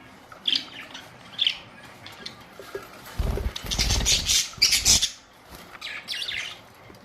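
Pet budgerigars chirping in short, high calls, with a louder rustling burst lasting nearly two seconds from about three seconds in.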